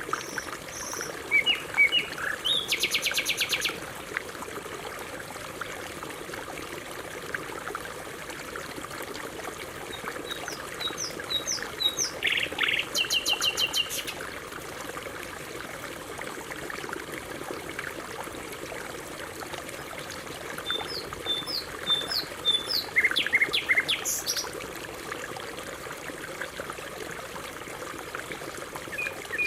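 Canary singing in three bouts of chirps and rapid trills, about ten seconds apart, over steady running water.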